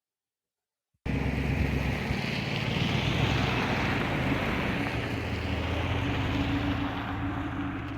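Ford F-350 Super Duty truck driving slowly off-road: steady engine and road noise with wind buffeting the microphone. It starts abruptly about a second in, after silence.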